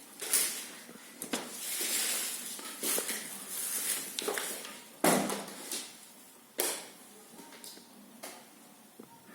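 Irregular knocks, clacks and scraping sounds, with sharp impacts about half a second, five seconds and six and a half seconds in.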